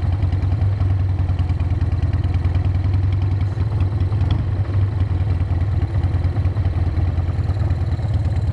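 Harley-Davidson motorcycle's V-twin engine running steadily on the move, a low, even rumble with no revving.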